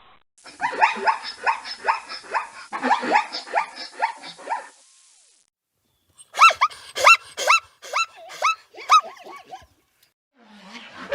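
Dogs yipping and barking in two separate recordings. The first is a busy run of many short, overlapping high yips and whimpers. After a short gap comes a series of about nine single yips, roughly three a second.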